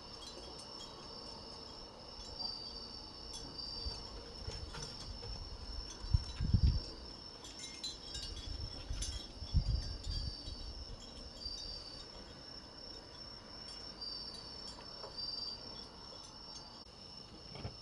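Autumn grass insects (crickets) trilling steadily and high, with a hanging wind bell ringing lightly now and then. Two brief low rumbles come about six and ten seconds in.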